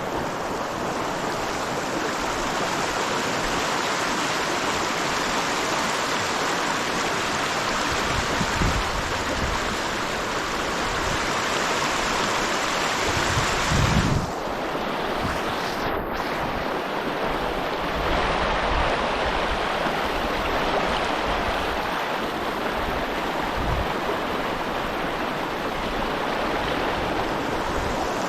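Steady rush of a mountain trout stream flowing over rocks, with a brief low rumble about halfway through.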